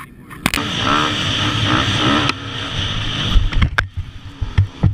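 Dirt bike engine running hard with its pitch wavering up and down, under a loud rushing noise, starting suddenly about half a second in. A few sharp knocks come near the end.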